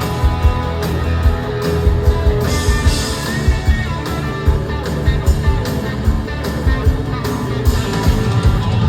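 A live band playing an instrumental passage: guitar over a steady beat.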